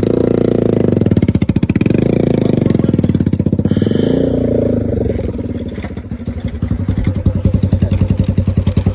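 Motorcycle engine running with a fast, even pulse, its revs shifting up and down, dipping about six seconds in before it picks up again. This is a bike that has been hard to start.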